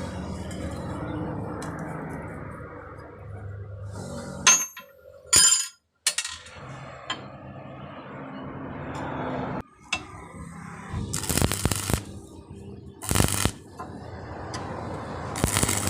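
Metal pieces clinking and knocking in a workshop. A steady low hum runs under the first few seconds, then come two sharp metallic clinks and later several short, harsh noisy bursts.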